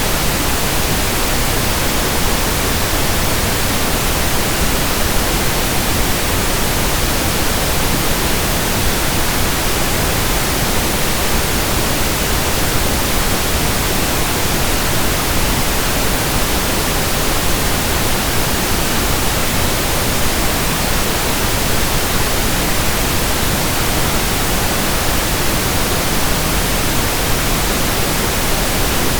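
Steady pink noise: an even hiss over all pitches, with no changes.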